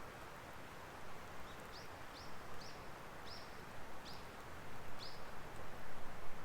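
A small bird giving a run of about seven short, high chirps, each falling in pitch, roughly two a second, over the steady hiss and light crackle of a wood fire burning in a fire pit.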